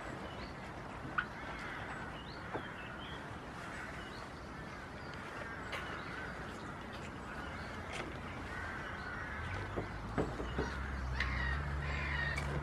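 Birds calling repeatedly, with a few sharp taps, and a low steady hum that comes in about three-quarters of the way through.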